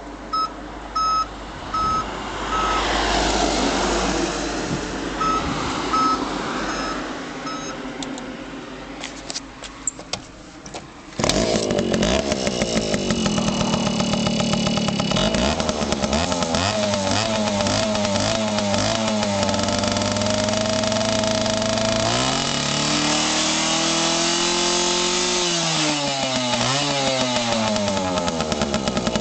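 A Suzuki K50's small two-stroke single-cylinder engine is started: a few clicks, then it catches suddenly about eleven seconds in and runs. It is revved up and down twice near the end.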